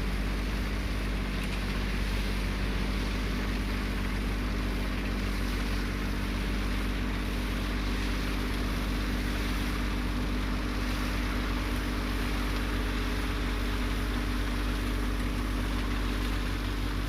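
Tractor diesel engines running steadily, a low drone with a constant hum that neither rises nor falls.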